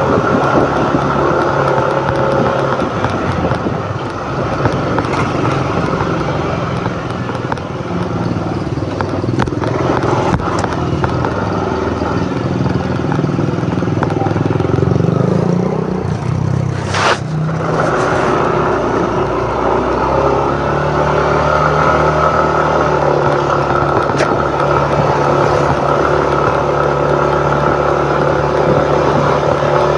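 Yamaha NMAX 155 scooter's single-cylinder engine running under way, heard from the rider's position with road noise. The engine note shifts up and down through the first half, with a brief sharp sound about 17 seconds in, then holds steady near the end.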